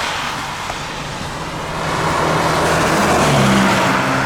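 A car driving: steady rushing road and wind noise, with a low engine hum that grows louder in the second half.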